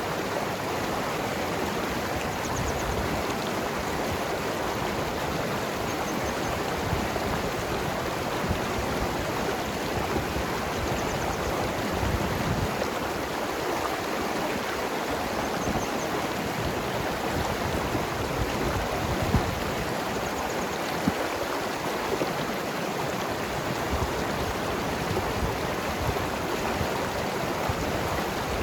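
Mountain river flowing steadily over rocks, a continuous rushing and gurgling of water.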